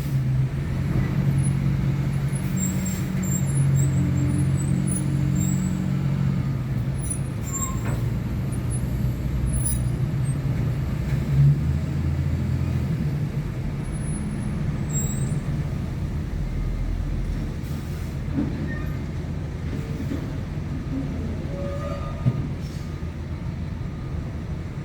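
Truck engine running with a steady low drone that shifts in pitch about eleven seconds in, with scattered faint high squeaks.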